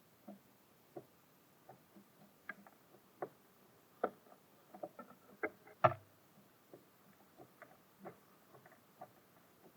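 Small birds pecking and hopping on a bird feeder: irregular light taps and clicks, with one louder knock about six seconds in.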